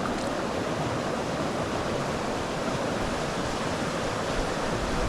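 Steady rushing of a mountain stream's flowing water, an even noise with no breaks.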